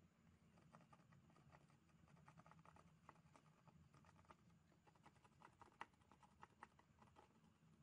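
Near silence: a faint low hum with light, scattered small clicks and scratches, one click a little louder near the middle.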